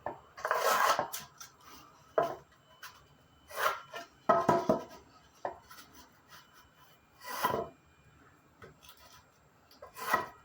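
Several short scraping strokes drawn across a sheet of drywall along a straight edge, with a few light knocks between them.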